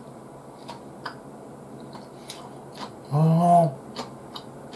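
Close-miked chewing: soft, scattered mouth clicks as food is eaten. About three seconds in comes one short hum from the eater's voice, the loudest sound.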